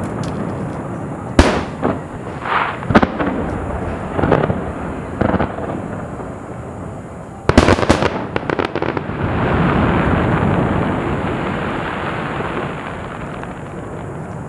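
Aerial fireworks bursting: several sharp bangs in the first few seconds, a quick cluster of cracks about halfway through, then a long rushing noise that swells and slowly fades.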